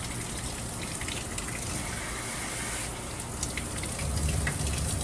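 Water running steadily from a dog-wash tub's sprayer, with a fuller low rush from about four seconds in.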